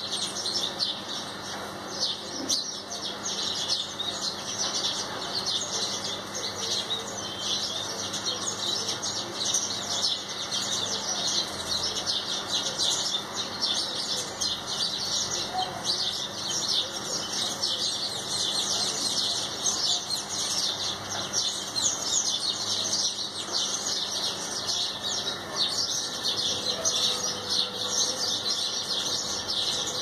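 A flock of small birds chirping without pause, many short high chirps overlapping.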